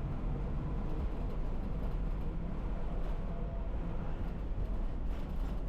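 Non-air-conditioned city bus running: a steady low rumble of engine and road noise.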